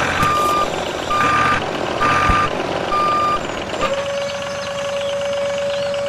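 Reversing beeper sounding a single-pitch beep about once a second, four times, over a steady mechanical noise. Then it stops and a steady, lower continuous tone comes in about two-thirds of the way through.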